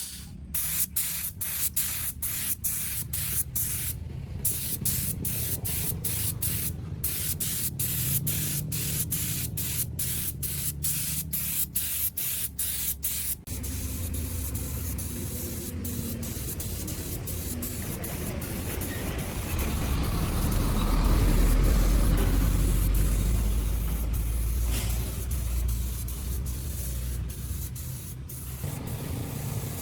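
Hiss of a pressurised spray or air jet, cut into many short bursts for the first dozen or so seconds, then running steadily, over a low hum that swells about two-thirds of the way through.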